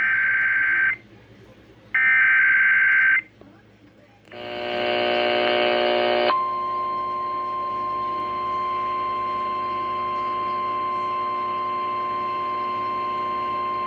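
Emergency Alert System broadcast over the radio: two screechy digital header bursts of about a second each, a brief harsh buzz, then a single long steady alert tone, signalling a severe thunderstorm warning.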